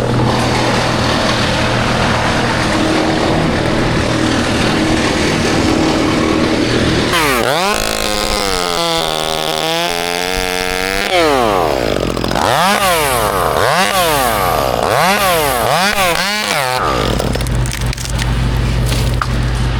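Chainsaw engine revving: after a steady low engine drone, the saw's pitch climbs and holds high for a few seconds, then is throttled up and down repeatedly before dropping back.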